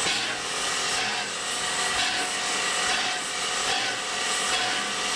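Steam locomotive No. 93 hissing steam, with a steady rhythm of soft exhaust chuffs as it moves slowly.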